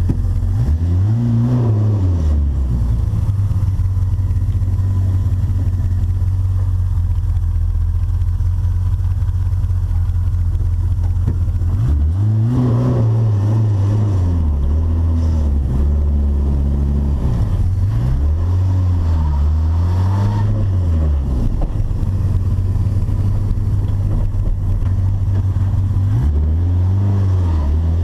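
Turbocharged VW Gol's engine revving up and falling back several times, with a long stretch of steady running in between and more quick rises and falls after it.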